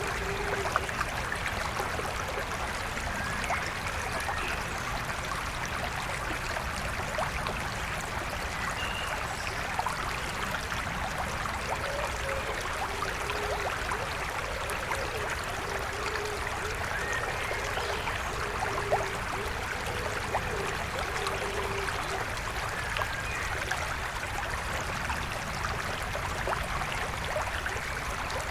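A forest stream flowing steadily.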